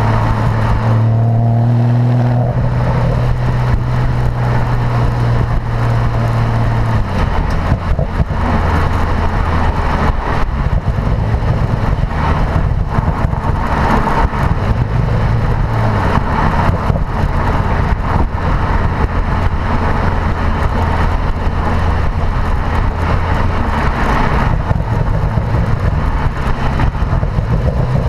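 Porsche Boxster engine through its performance sports exhaust, running at a steady drone for the first several seconds, then dropping to a lower, rougher, unsteady note with road noise as the car drives on.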